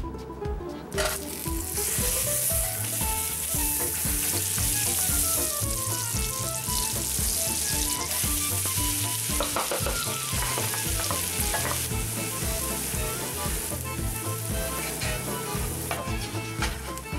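Butter sizzling in a cast iron skillet. Partway through, chopped onion and garlic are tipped in to sauté, and they keep frying while being stirred with a wooden spoon.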